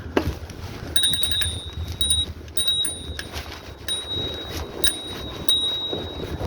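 Bicycle bell rung repeatedly, about seven rings over some five seconds starting about a second in, over a steady low rumble.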